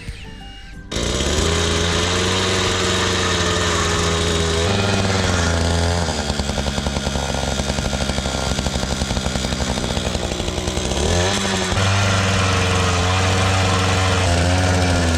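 Small gasoline engine starting up loud about a second in and running under changing load, its speed dipping and recovering a few times.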